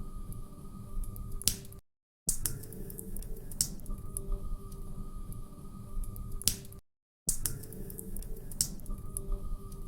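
Wood fire crackling, with sharp pops and snaps over a low rumble. The sound is a short repeating loop that cuts out to silence twice for about half a second.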